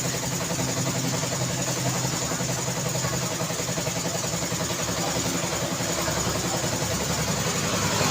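Road traffic: vehicle engines running steadily at low speed over a constant hiss.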